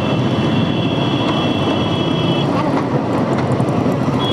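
Motorcycle running steadily in slow traffic, with engine and road rumble pulsing quickly. A steady high-pitched tone sounds over it for the first two and a half seconds, then stops, and a short one comes again near the end.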